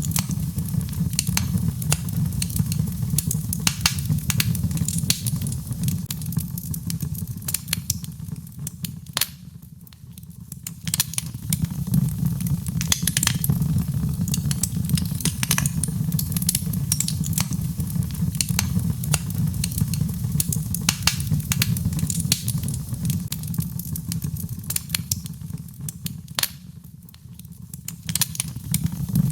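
Birchwood fire burning in a fireplace: a steady low rumble of flames under dense, irregular crackles and sharp pops. The crackling thins out briefly twice, about ten seconds in and again near the end.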